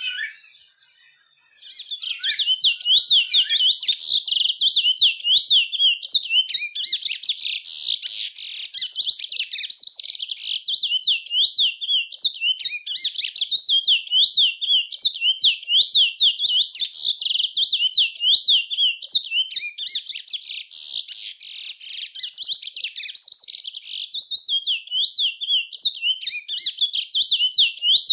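A songbird in full song: a long, rapid run of high chirping, twittering notes, several a second, that goes on with hardly a break from about two seconds in.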